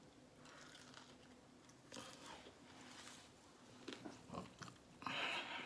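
A person biting and chewing crispy fried food close to the microphone, with faint scattered crunches and a louder burst of crunching noise near the end.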